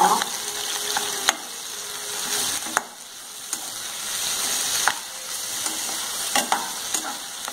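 Sliced onions and tomato chunks sizzling in hot oil in a nonstick kadai while a metal spoon stirs and scrapes them, with a few sharp clicks of the spoon against the pan. The tomatoes are being sautéed until their water cooks off.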